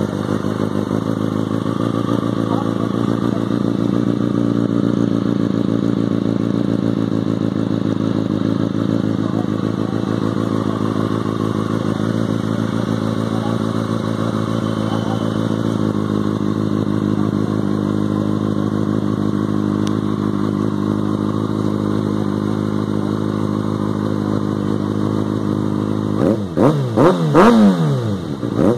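Kawasaki Ninja ZX-6R (636) inline-four engine idling steadily, then revved in a few quick throttle blips near the end, the pitch shooting up and dropping back each time.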